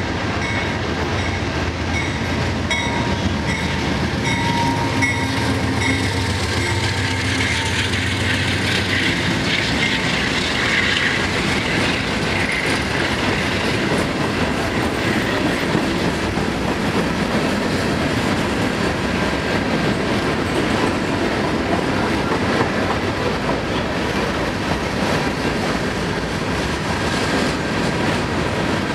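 Freight cars rolling past, steel wheels clicking evenly over the rail joints, over a steady rolling rumble. A deeper low rumble drops away about nine seconds in.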